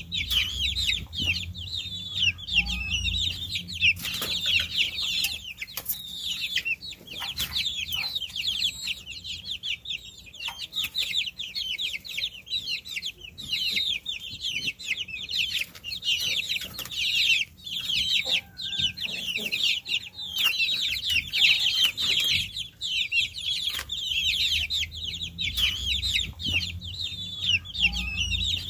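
A brood of baby chicks peeping constantly, with many short, high, falling chirps overlapping into a continuous chorus.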